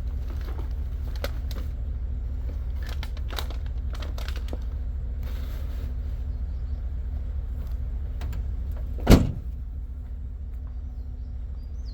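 A truck engine running steadily, with light clicks and rustles over it and one sharp loud bang about nine seconds in.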